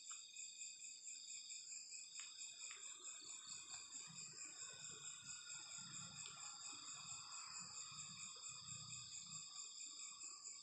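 Faint night chorus of crickets and other insects: several high, steady, pulsing trills, one of them calling in long trills of about two seconds broken by short gaps.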